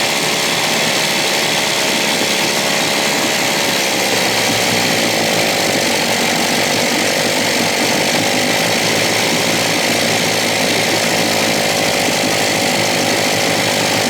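A 1956 Evinrude 7.5 hp outboard being spun over continuously during a spark test: a loud, steady, even mechanical whir.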